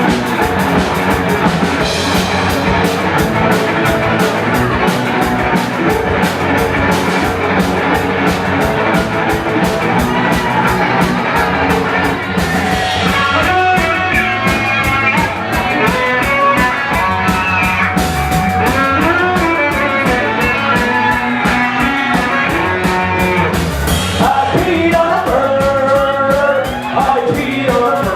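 Live rock band playing, with drums keeping a steady fast beat, guitar and a melodic lead line that comes in about halfway through.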